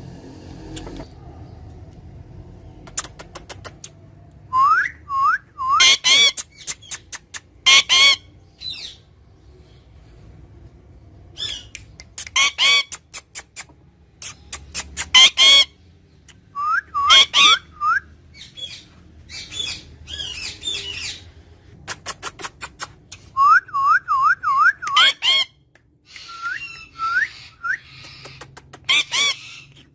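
Pet parrot calling in repeated bouts: rapid runs of clicks, short looping whistles and harsh squawks, with brief pauses between them.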